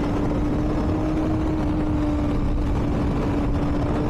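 Motorcycle engine running at a steady cruising speed, one unchanging drone over a constant low rumble of wind and road noise on the microphone.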